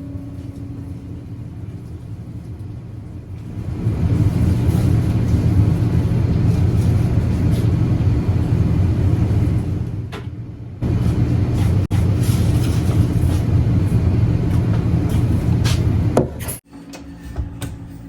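A steady machine rumble that starts up about three and a half seconds in, drops away briefly around ten seconds, runs again and cuts off shortly before the end.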